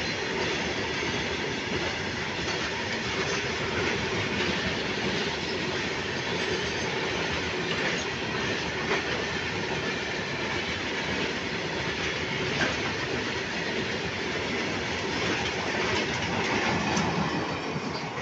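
Freight train rolling past, its wagon wheels clattering on the rails with scattered sharp clicks. The noise falls away sharply at the very end.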